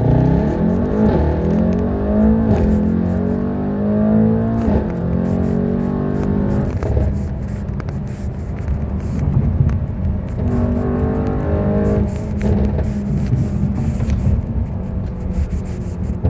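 Mercedes-AMG E63 4MATIC (W213) twin-turbo V8 through a valved iPE exhaust, accelerating hard. The revs climb over the first few seconds, drop at a gear change about five seconds in, and later run at steadier revs.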